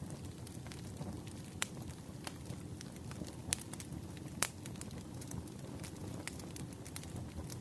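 Campfire burning: a steady low rumble of flames with irregular sharp crackles and pops of burning wood, a few standing out louder.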